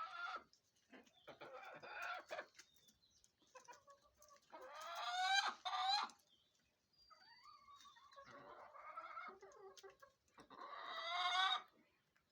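Hens clucking, with about half a dozen drawn-out calls that rise in pitch; the loudest come about five seconds in and near the end.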